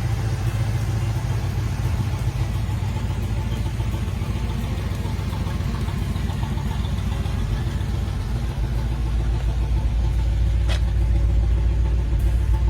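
Car engine running steadily with a deep rumble, getting somewhat louder near the end, with a single brief click shortly before it ends.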